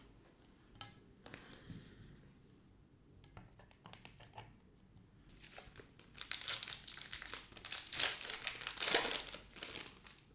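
Trading-card pack wrapper being torn open and crinkled, with light rustling and clicking of cards being handled before it; the crinkling is loudest over the last four seconds.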